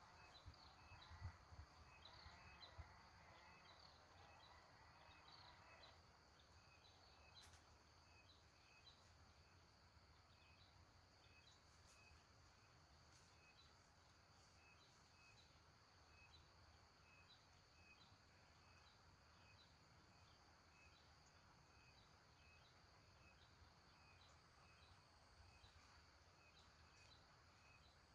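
Faint forest ambience: a steady high insect drone, with a short chirp repeating about every two-thirds of a second.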